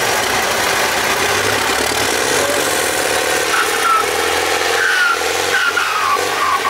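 Tractor engine running loudly under load in a tractor pull, with a whistle-like tone sliding down in pitch several times in the later seconds.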